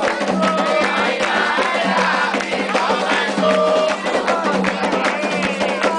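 Candomblé ceremonial music for Xangô: atabaque hand drums and struck percussion playing a dense, fast rhythm under group singing.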